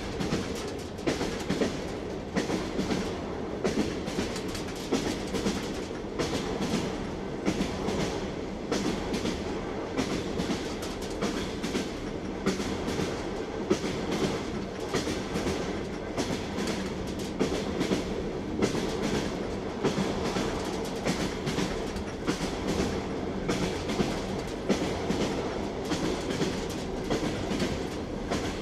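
Train wheels clattering over rail joints: a steady rolling rumble from a moving railway car, with repeated clickety-clack knocks.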